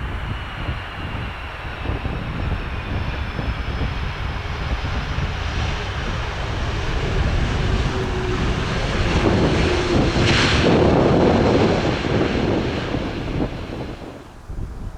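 Airbus A330-300 twin-engine jet airliner on landing approach passing close by. Its engine noise, with a faint falling whine, swells to a peak about ten seconds in and then fades. Gusty wind buffets the microphone throughout.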